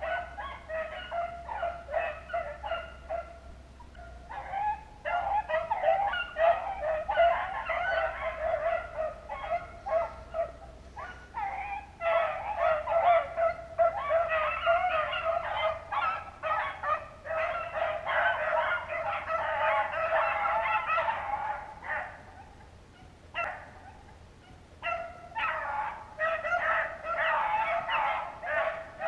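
A pack of hunting dogs baying together on a rabbit's trail, many overlapping honking voices. The chorus goes on in long stretches, dropping off briefly three times.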